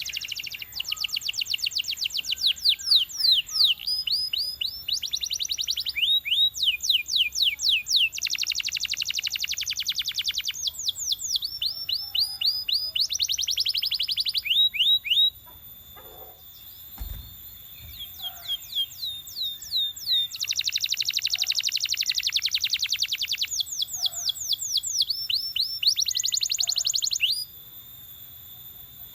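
Belgian canary singing in long phrases of fast rolling trills and runs of quick downward-sweeping notes. It breaks off for a few seconds around the middle, when there is a brief low thump, then sings again and stops shortly before the end.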